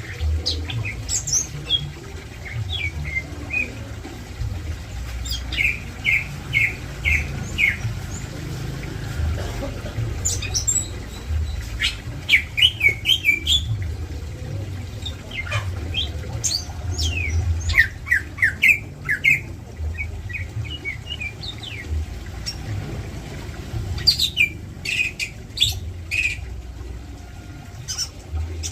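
Cucak ijo (green leafbirds) calling in bursts of short, sharp chirps and squawks, several quick notes at a time, with a steady low rumble underneath.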